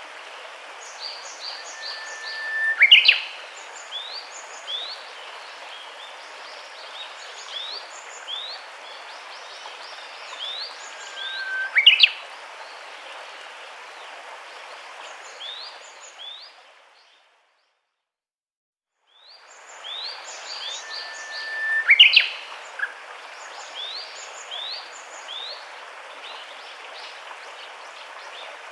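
Birdsong over a steady hiss of background noise: many short rising chirps, with a few louder calls that sweep sharply up in pitch. Around the middle the sound fades out, is silent for about two seconds, then fades back in.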